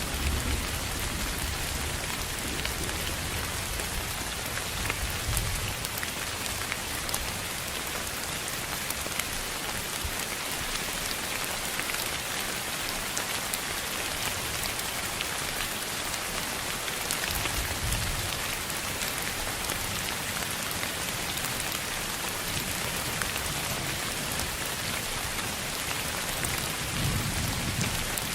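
Steady, even rushing noise with a rain-like sound, faint fine ticks throughout and soft low rumbles now and then.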